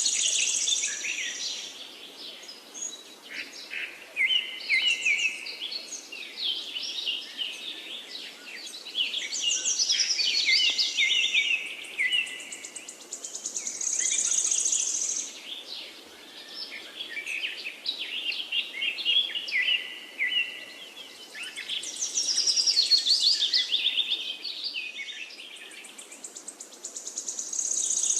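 Several songbirds singing in overlapping chirps and rapid trills, with a high buzzy trill that comes back about every 14 seconds.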